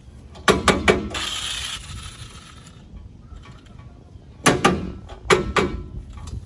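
Sharp metallic clicks and rattles in three short clusters, with a brief hiss after the first cluster, from hand work on a car's engine bay.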